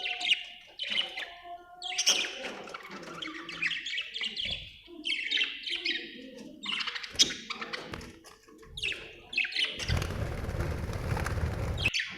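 Budgerigars chirping and chattering in quick, warbling bursts. A rushing noise runs for about two seconds near the end.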